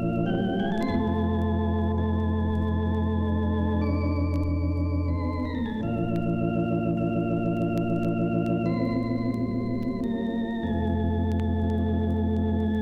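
Organ music: slow, held chords with a gentle wavering vibrato, changing every second or two.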